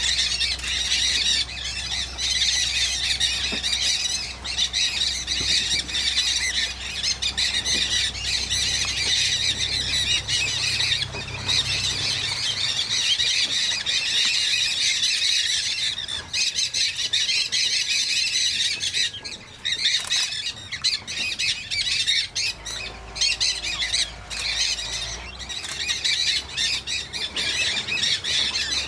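A large flock of parrots, mealy amazons among them, squawking and screeching together in a dense, unbroken chorus.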